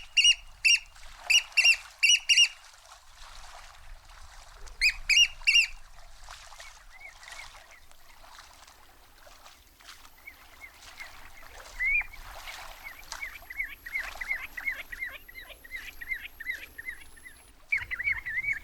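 Shorebirds calling: loud, shrill piping calls in quick bunches of three to five during the first six seconds, then, from about halfway, a long run of short, rapid falling calls.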